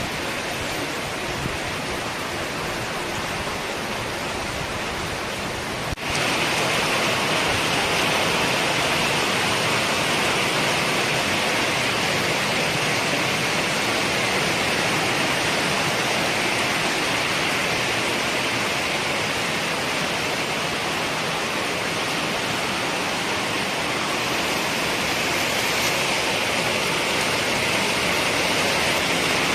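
Heavy rain falling, a steady hiss. About six seconds in it dips for an instant, then comes back louder and brighter.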